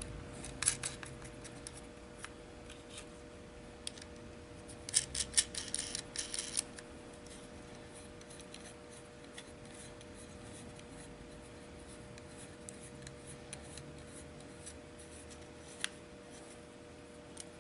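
Small metal clicks and light rattling of nuts being handled and threaded by hand onto bolts on a metal bracket plate. The clicks come in short clusters about a second in and around five to six and a half seconds, with a single click near the end, over a faint steady hum.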